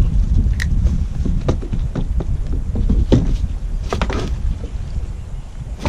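Irregular knocks and taps from a freshly caught fish being handled aboard a kayak, over a steady low rumble of wind on the microphone.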